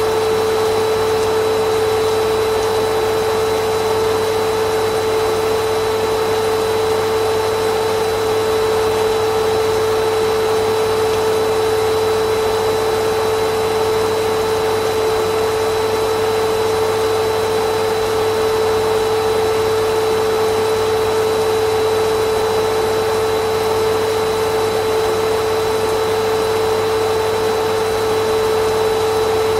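Vacuum cleaner motor running continuously at a steady, unchanging pitch, with a strong hum over an even rush of air.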